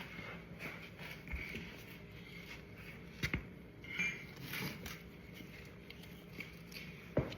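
Light taps on a motorcycle part to work it into place, among small tool clicks and scrapes, with two sharper knocks about three seconds in and near the end.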